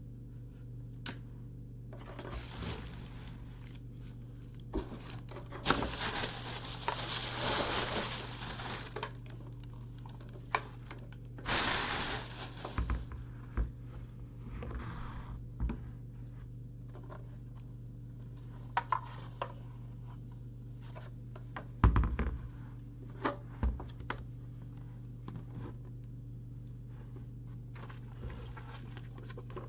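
A mini fridge's packaging being unboxed by hand: tearing and crinkling of packing material, with rustling, scraping and scattered taps and knocks, and one sharp knock about two-thirds of the way through. A steady low hum runs underneath.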